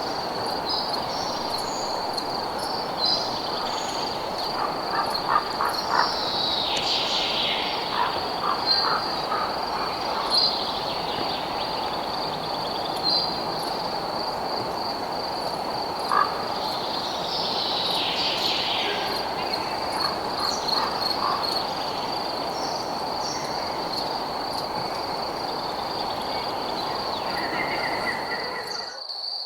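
Night nature ambience: a steady, high, pulsing cricket trill over a dense lower chorus of night creatures, with a few short falling calls and scattered chirps. About a second before the end the lower chorus cuts off abruptly, leaving the trill.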